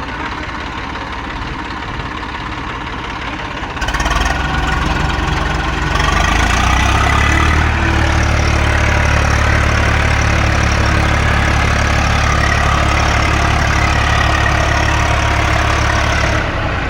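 Eicher tractor diesel engine running. It gets louder about four seconds in and is held at high throttle from around six seconds with a heavy low rumble, then drops back near the end, as the stuck tractor is driven to pull free.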